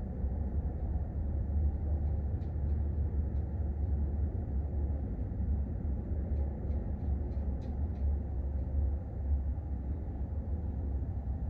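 Low, rolling rumble of distant thunder, swelling a little louder soon after the start and easing off near the end.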